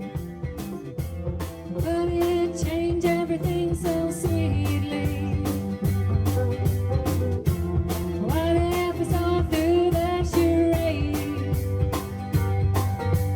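Live band playing a song at a sound check: long, wavering sung notes over guitar, bass and a steady drum beat.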